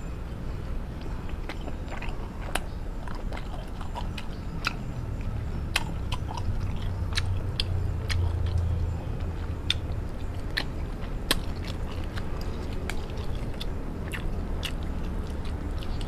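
A person chewing steamed chicken dipped in chilli sauce close to the microphone, with frequent small irregular clicks of the mouth, over a low steady hum.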